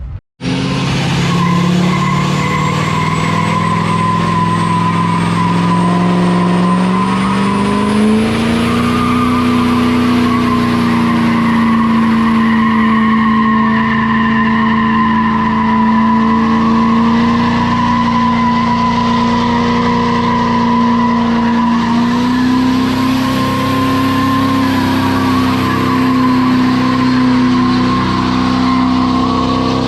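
Diesel pickup truck engine held at high revs during a burnout, the tires spinning and squealing. The engine pitch steps up slightly about eight seconds in and again a little past twenty seconds.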